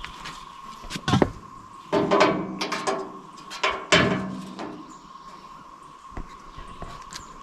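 Knocks and clatter of tools and parts being handled. The strongest knock comes about a second in, with busier clusters about two and four seconds in, over a faint steady high tone.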